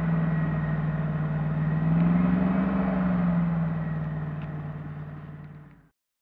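Airboat's engine and propeller running with a steady drone that swells slightly about two seconds in. It then fades out and cuts off just before the end.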